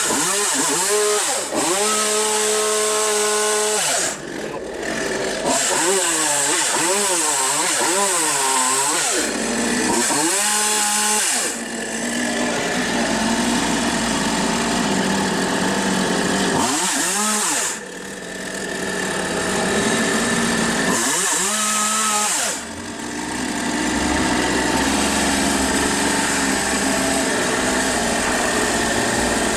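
Partner 351 two-stroke chainsaw engine being revved over and over. The throttle is opened and held at high revs for several seconds at a time, then drops back briefly toward idle about four times, while its carburettor is set after a carburettor adapter repair.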